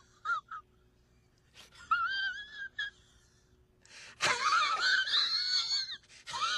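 Wheezing laugh sound effect: a string of high-pitched, wavering squealing breaths with a trembling pitch, three long ones with short silent gaps between them.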